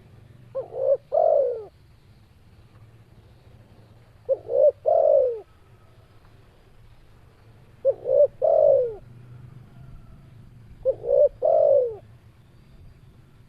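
Spotted dove cooing: four song phrases about every three and a half seconds, each two short coos followed by a longer falling coo.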